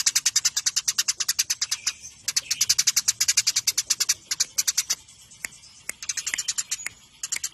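Eurasian tree sparrows chattering in a fast run of short, high chips, about ten a second, the quarrelling calls of sparrows fighting. The run breaks off briefly about two seconds in, and thins to scattered chips around five seconds in before picking up again.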